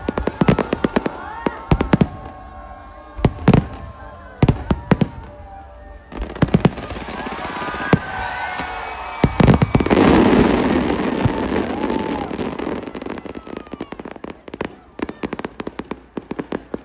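New Year fireworks display: a rapid series of sharp bangs from bursting shells, mixed with whistling tones that rise and fall in pitch. About ten seconds in comes a dense rush of crackle, and the bangs come thick and fast again near the end.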